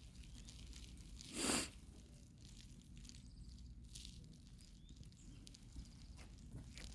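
Faint outdoor rustling and light footsteps on a walk, with one brief, loud whoosh of noise about a second and a half in.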